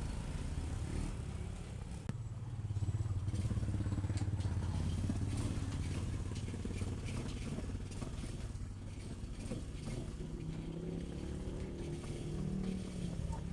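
Restored Honda XRM 110's small single-cylinder four-stroke engine running steadily, louder for a few seconds early on, then revving up with a rising pitch near the end.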